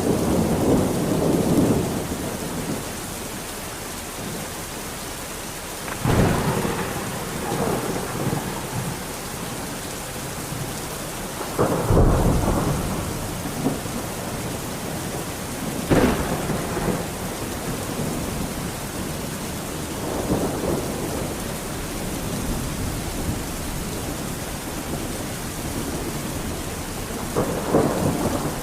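Steady rain with repeated thunder: rolling rumbles and several sharp claps every few seconds, the sharpest about a fifth of the way in, near halfway, and again near the end.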